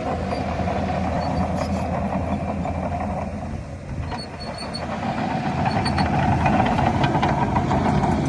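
Heavy diesel earthmoving machinery running, its engine dipping briefly about halfway through, then growing louder.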